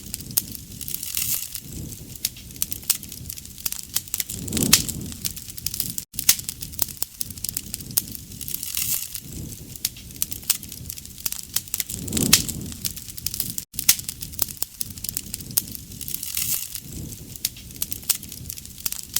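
Bonfire crackling and popping with a dense run of sharp snaps, with a soft low swell every few seconds.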